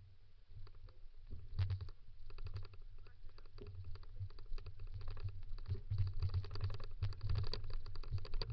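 Rapid irregular clicking and crackling over a low rumble that grows louder as it goes, typical of a dog-pulled kick scooter rolling over a dirt and gravel trail with wind buffeting the microphone.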